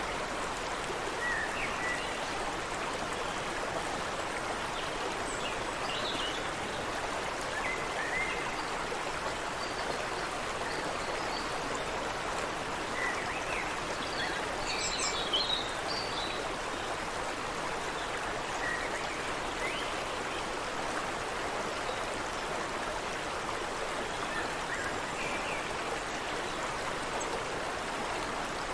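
Creek water running steadily, with faint scattered bird chirps over it and a brief cluster of higher bird calls about halfway through.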